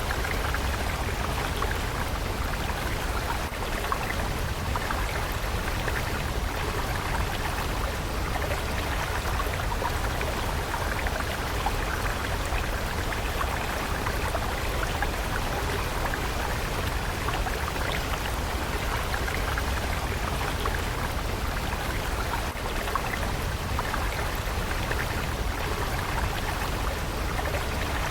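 Water stream flowing: a steady, unbroken rush with fine splashing and a low rumble.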